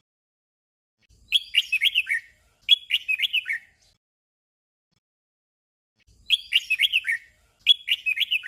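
Red-whiskered bulbul singing a short, quick warbled phrase and at once repeating it, the 'doubled' song; the pair comes twice, about a second in and again about six seconds in.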